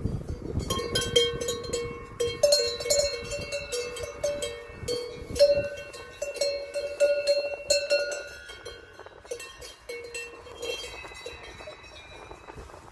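Cowbells on livestock clanking irregularly, several bells of different pitches struck over and over, busiest in the middle and thinning out near the end.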